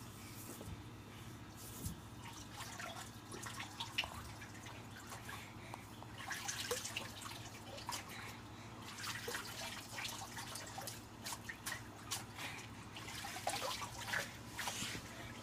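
Water splashing and dripping in irregular small bursts as a shirt is washed by hand in water.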